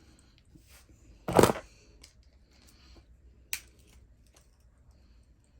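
Small parts and hand tools handled while an RC car's differential cover is unscrewed: one short loud noisy scrape a little over a second in, and a single sharp click at about three and a half seconds, with faint fiddling sounds between.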